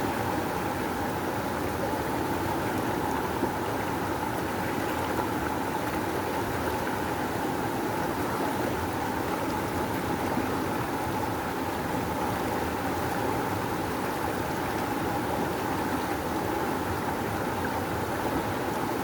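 River water rushing, a steady full rush with no breaks or changes.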